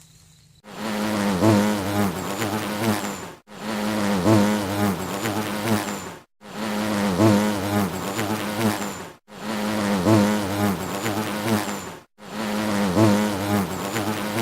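Loud insect buzzing, a droning hum with a wavering pitch. It is one clip of about three seconds played over and over, five times, with a short break between each.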